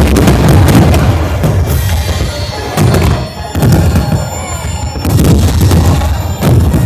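Fireworks going off in a loud display, with heavy booms every second or two and sharp crackling, over music with a drum beat.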